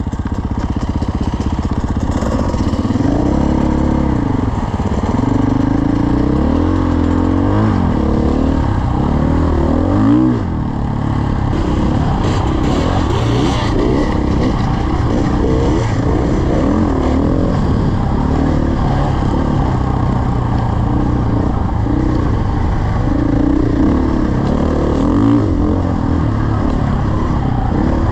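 Dirt bike engine running as the bike is ridden, its revs rising and falling again and again with the throttle and gear changes.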